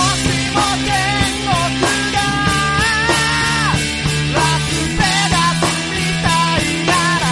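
A three-piece rock band playing loud punk-style rock: drums, bass guitar and electric guitar, with a high melody line on top that bends and wavers.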